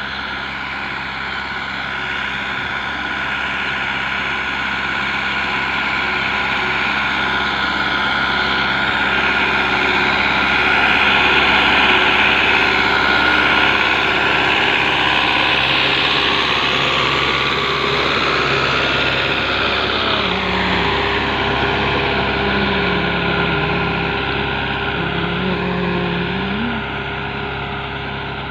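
A tractor engine running steadily, growing louder towards the middle and easing off again towards the end.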